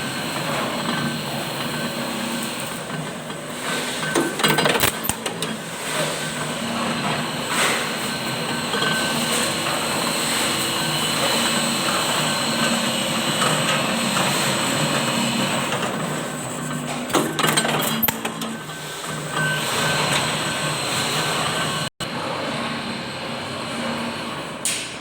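Workshop machinery running with a steady hum, with a few sharp metal knocks and clanks, about a second into the first third of the clip and again later on.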